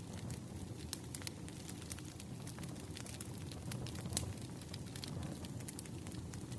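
Burning firewood crackling: irregular sharp pops and snaps over the low steady rumble of the fire, with one louder snap about four seconds in.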